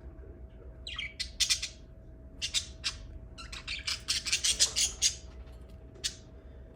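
Lovebirds giving short, high-pitched chirps and squawks in several quick bursts, starting about a second in, with a last single call near the end. A faint steady hum runs underneath.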